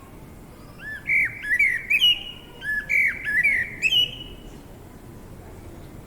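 A songbird singing one quick phrase of rapid, repeated chirping notes lasting about three seconds, starting about a second in. Under it runs a steady, soft background hiss.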